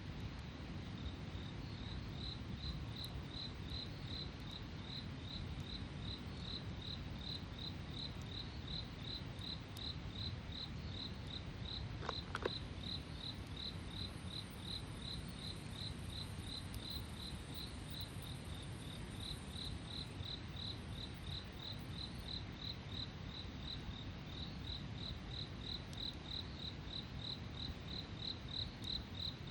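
A cricket chirping steadily, about two and a half short high chirps a second, over a low steady background rumble, with a single sharp snap about twelve seconds in.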